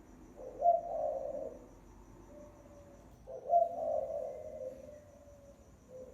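Spotted dove cooing: two low, rolling coo phrases a few seconds apart, each followed by a softer short coo, played as a lure call for trapping or attracting doves.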